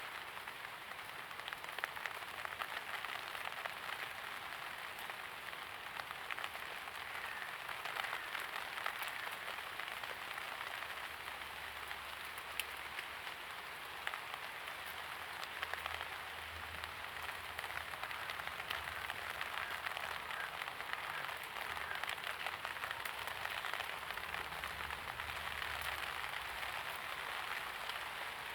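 Steady light rain falling, with many small drops pattering on hard surfaces.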